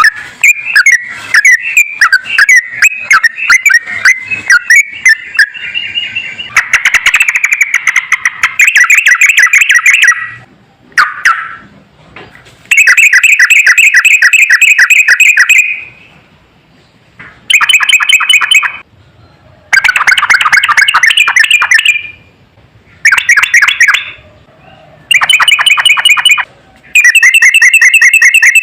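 Sooty-headed bulbul (trucukan) song: a stretch of busy chattering notes, then a series of loud, fast trilled phrases, each lasting one to three seconds with short pauses between.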